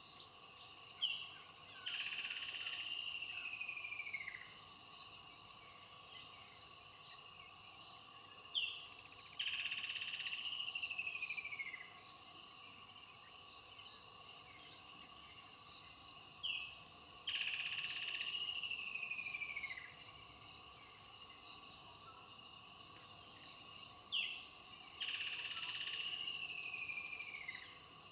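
A bird calling four times at even intervals of about seven and a half seconds. Each call is a short sharp note followed by a louder call of about two seconds that falls in pitch. Steady insect chirring runs underneath.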